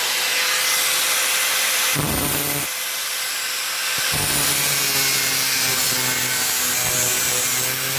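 A small electric power tool spins up and runs steadily with a loud, hissing grind, working the steel of a hacksaw blade. Its tone shifts about two seconds in and again about four seconds in as the load changes.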